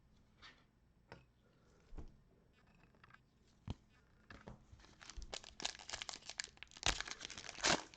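A few faint clicks of trading cards being handled, then, a little over four seconds in, the foil wrapper of a trading-card pack crinkling and being torn open.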